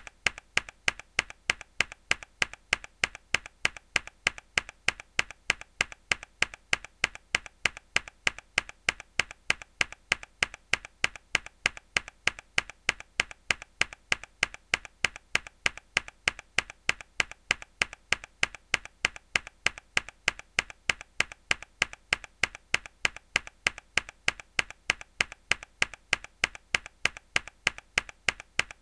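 Mechanical keyboard key pressed hard over and over, each press a sharp click, repeating evenly at about two to three a second.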